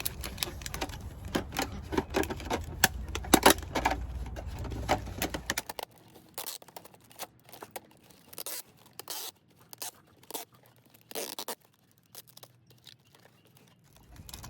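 Tape being pulled off the roll and pressed around a plastic milk jug: a run of short rips and crackles, thinning out after about six seconds.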